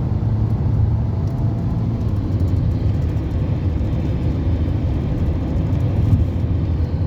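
Steady low rumble of a vehicle driving along a highway: engine and road noise.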